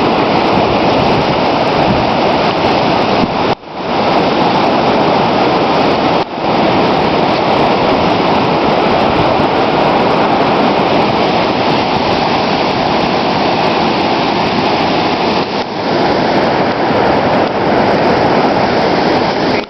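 Floodwater from heavy rain running across a road like a river: a loud, steady rush of water, broken off briefly twice, about three and a half and six seconds in.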